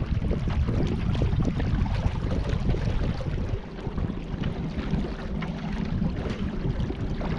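Wind buffeting the microphone out on the river, a dense, fluttering low rumble, with a faint steady hum joining about halfway through.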